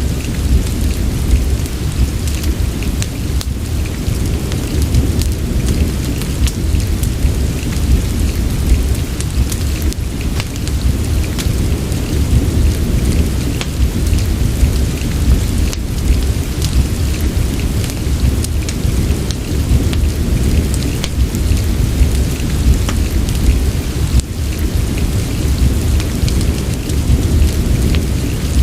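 Steady rain mixed with a crackling fireplace fire: a continuous hiss over a deep, even low rumble, with many small sharp crackles scattered throughout.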